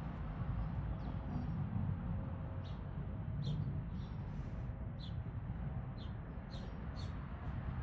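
Small birds chirping: short, high calls, a few faint ones at first, then coming every half second or so from about a third of the way in, over a steady low rumble.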